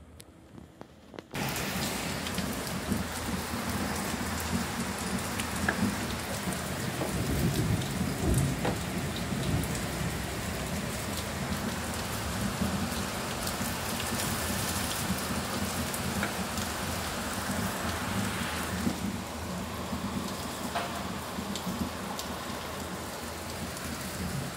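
Heavy rain pouring down: a dense, steady hiss that starts abruptly about a second in, with a low rumble underneath.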